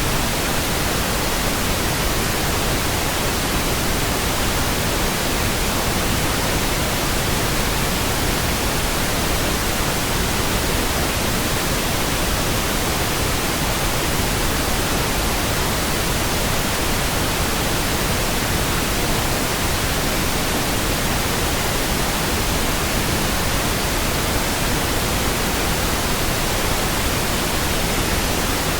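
Synthetic pink noise: a steady, even hiss with nothing else in it.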